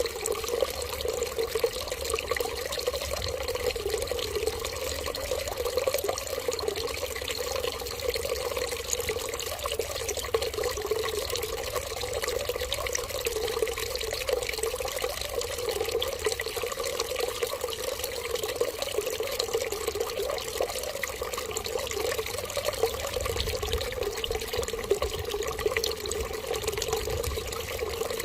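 Running water, a steady unbroken flow that does not change.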